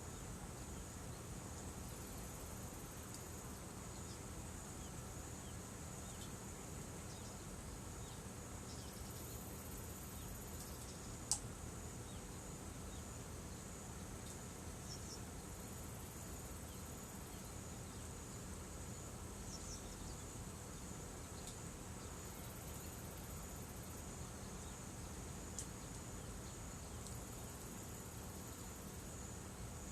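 Insects trilling steadily in a high, finely pulsing chorus, with one sharp crack about eleven seconds in and a fainter click near the end.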